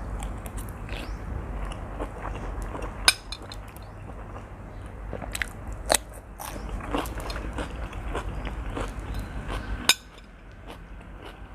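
A person chewing and biting mouthfuls of spicy seafood instant noodles up close, with three loud sharp clicks about three seconds apart.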